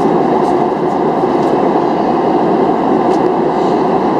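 Steady in-flight cabin noise of a Boeing 737-700, heard from inside: a dense, even rush of engine and airflow noise.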